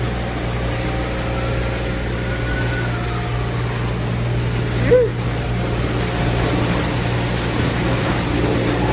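Steady low mechanical hum, with a brief higher-pitched chirp about five seconds in.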